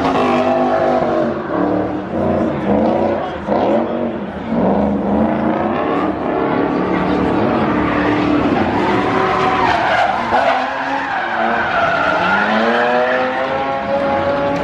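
Drift cars sliding on track: engines revving up and down over and over while the tyres skid.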